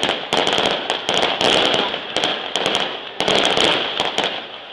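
Firecrackers cracking in a rapid, irregular string, several sharp bangs a second, over a steady high-pitched tone.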